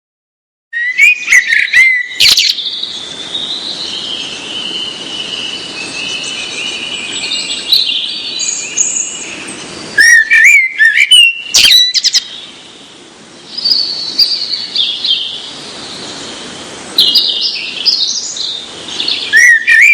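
Birds calling and singing loudly: sharp, curling chirps and a warbling song over a steady background hiss, with bursts of chirps about a second in, again around ten to twelve seconds, and near the end.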